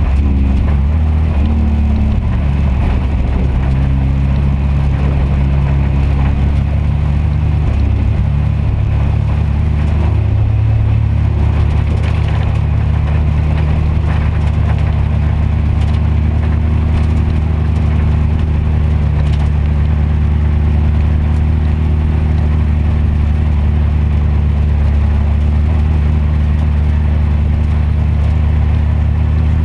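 Speedway production sedan's engine heard from inside its cockpit, running at low, steady revs. The engine note shifts a few times in the first ten seconds, then holds level.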